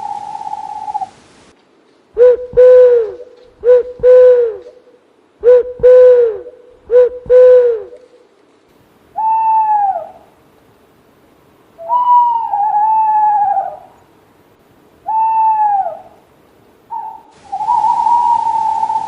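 Owls hooting: a quick series of short, low hoots in pairs, then several higher calls that slide downward in pitch, and a long steady note near the end.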